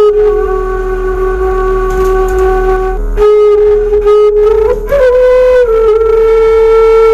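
Bamboo suling flute, played by a beginner in slow, long held notes with a short break for breath about three seconds in and a step up in pitch near five seconds.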